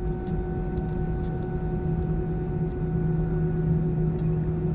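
Steady hum of an airliner cabin: engine and air-conditioning noise with a constant whine. A low note in the hum gets stronger about two seconds in.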